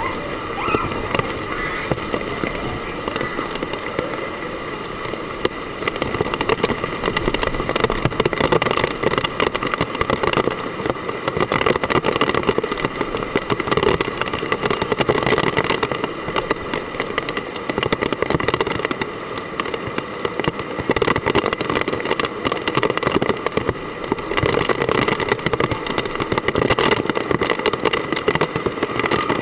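Heavy typhoon rain pelting down hard, a dense, steady crackle of countless drops striking surfaces, swelling a little in loudness now and then.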